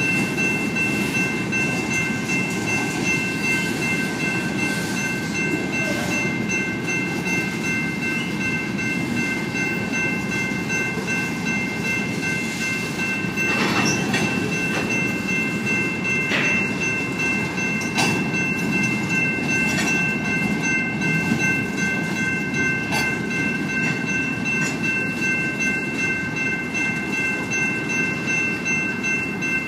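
Freight cars rolling slowly through a grade crossing, wheels rumbling steadily on the rails, with a few sharp clanks in the second half. The crossing's General Signals electronic bells ring steadily over it.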